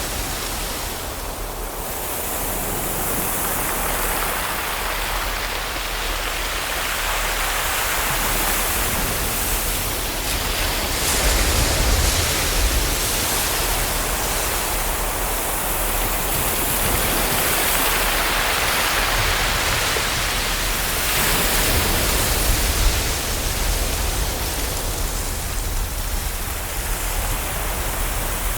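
Ocean waves breaking and washing ashore: a continuous rush that swells and eases slowly every several seconds, with a low rumble beneath.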